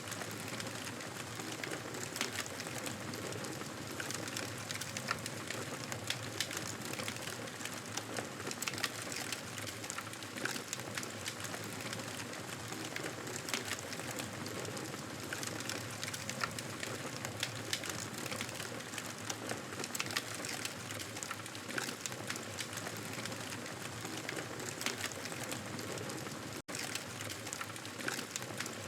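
Wood fire in a fireplace crackling: a steady hiss studded with frequent small pops and snaps. The sound cuts out for an instant near the end.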